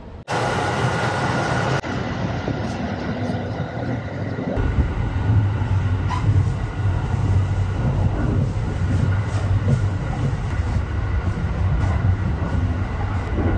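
Sleeper train running, its rumble and rail noise heard from inside the car. The noise jumps up suddenly just after the start, and the low rumble grows stronger about four and a half seconds in.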